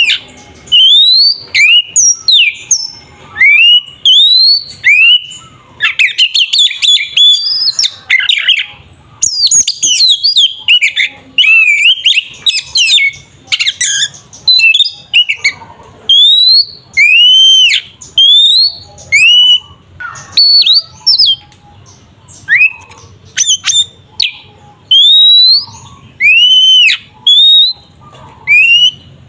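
Oriental magpie-robin (kacer) in loud, aggressive fighting song. It repeats clear whistled notes that rise and fall, about one a second. About six seconds in comes a dense run of rapid chattering notes lasting several seconds.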